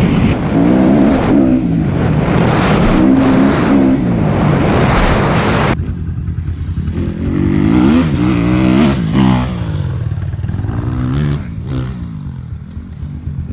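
Dirt bike engine revving up and down over and over, its pitch rising and falling as the rider works the throttle and gears. A loud rushing noise sits over it for the first six seconds, then cuts off suddenly.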